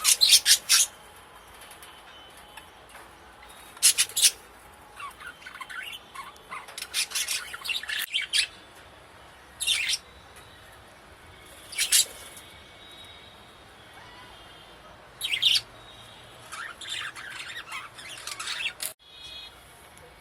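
Budgerigars chirping and squawking in short, shrill bursts, one every second or few seconds, with a busier run of calls near the end.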